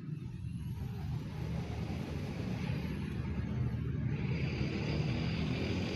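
A bus approaching, its engine rumble growing steadily louder, with rising hiss in the second half.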